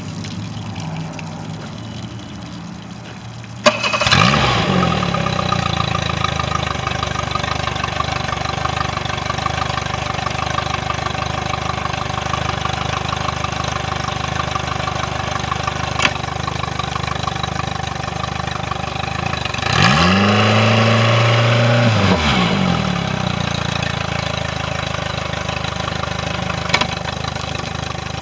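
Mercury 60 hp four-stroke outboard motor starting about four seconds in, now firing after a no-start problem, then running at a steady idle. It is revved briefly once about two-thirds of the way through and drops back to idle.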